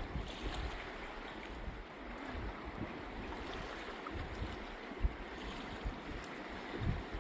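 Running river water, a steady rush, with wind buffeting the microphone in low rumbles and a couple of short thumps.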